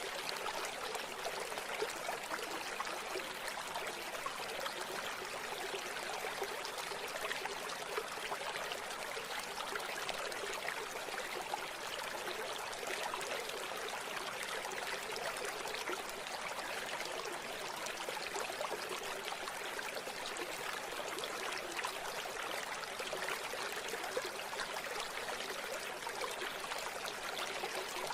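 River water flowing and babbling steadily over stones, a continuous bright rushing with fine splashing and little low rumble.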